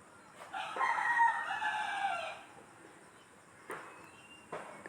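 A rooster crowing once, a call of about two seconds that drops in pitch at the end. Two faint clicks follow.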